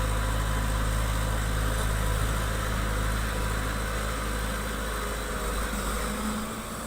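A construction machine's diesel engine idling steadily, growing a little quieter over the last couple of seconds.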